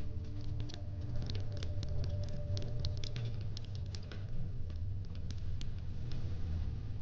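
Fire crackling: irregular sharp pops and snaps over a steady low rumble. A held background music note fades out in the first second or so.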